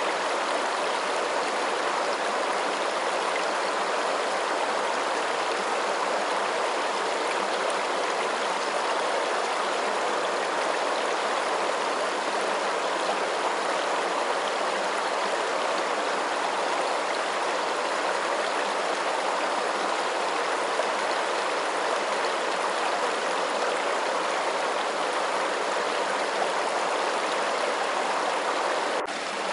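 Steady, even rush of running water, like a flowing stream, with no pauses or separate splashes. It dips briefly just before the end.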